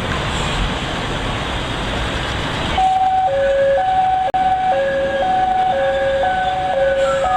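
A steady rushing noise, cut off about three seconds in by an emergency-vehicle siren sounding a two-note hi-lo pattern, its high and low notes alternating unevenly. A falling tone cuts across it near the end.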